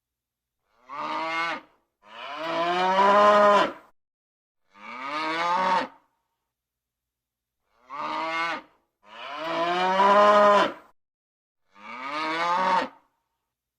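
Cow mooing: six separate moos with silence between them, two of them drawn out to nearly two seconds and the others shorter.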